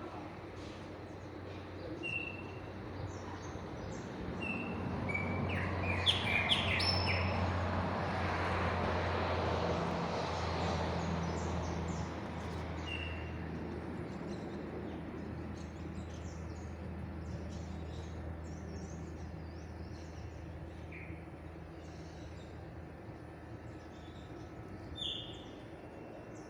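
Chopi blackbird (pássaro-preto) giving short whistled call notes, with a quick run of several higher notes about six seconds in and a louder note near the end. A vehicle passes over the first half, swelling and fading, over a steady low hum.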